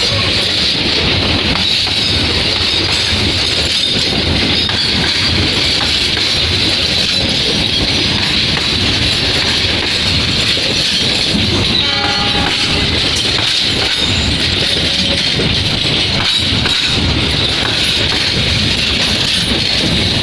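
Passenger train passing through a station: a steady, loud rumble of wheels on rails with repeated clicks. A brief pitched tone sounds about twelve seconds in.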